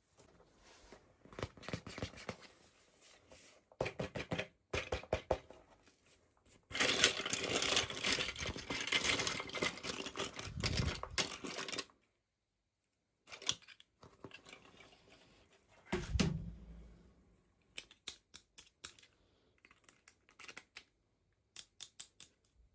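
Toy packaging being opened by hand: a long stretch of tearing and crinkling in the middle, with clusters of small plastic clicks and taps before and after, and one dull thump about two-thirds of the way through.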